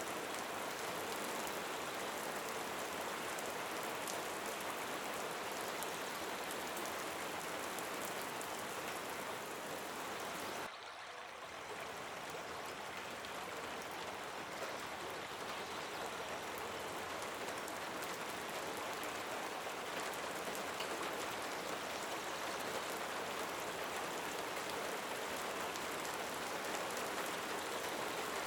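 Steady rain falling, a dense even hiss with many fine drop clicks. About eleven seconds in the sound briefly drops in level, then comes back up.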